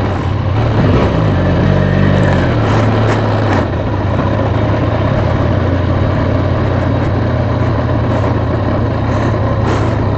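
Motorcycle engine running at low speed, its pitch rising briefly about a second in and dropping back to a steady low note after about three and a half seconds.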